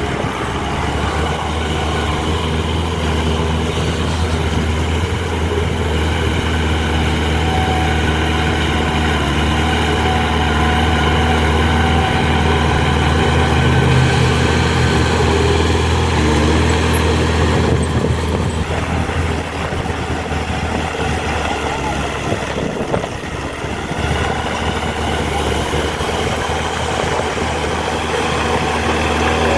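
Diesel engine of heavy earthmoving machinery, a dump truck or bulldozer, running steadily, with a slight swell in level partway through and a brief dip later.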